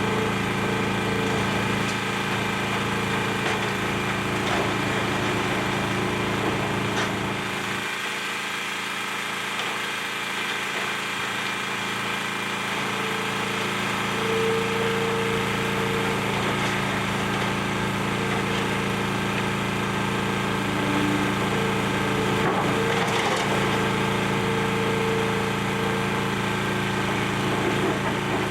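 Demolition excavator's diesel engine running steadily with an on-and-off whine, over the crunching and splintering of building debris being broken up. The engine eases off briefly about eight seconds in.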